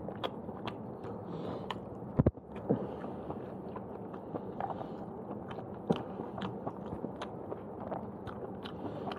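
A person chewing a mouthful of fried udon noodles close to the microphone, with many small wet mouth clicks and smacks. There is a single loud thump about two seconds in.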